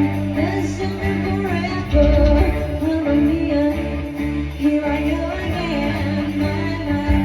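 Live band performing a song: a singer over guitar and a steady low bass.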